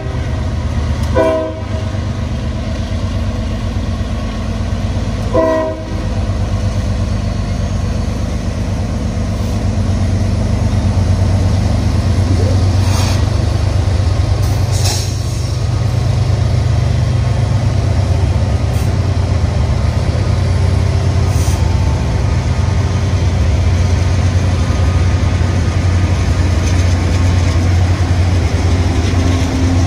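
Diesel freight locomotives passing close by, a CSX unit followed by Canadian Pacific units including an SD70ACU, with a steady low engine rumble. The locomotive horn gives short blasts about a second in and again around five seconds in, and brief high wheel squeals come around thirteen and fifteen seconds in.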